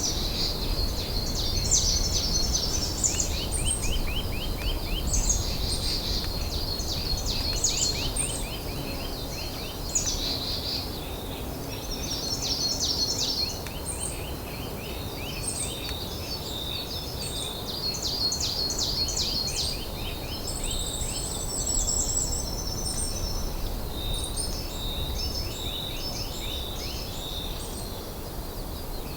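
Several wild songbirds singing over one another on a mountain ridge, with repeated fast trills and high chirps throughout. A steady low rumble sits underneath.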